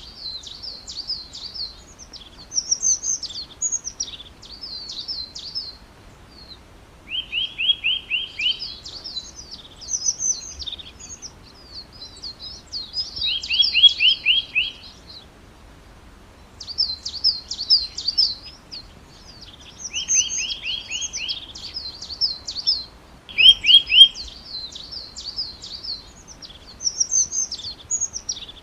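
A songbird singing: repeated phrases that each open with a quick run of about six even notes, then a jumbled, higher twittering, with short pauses between phrases.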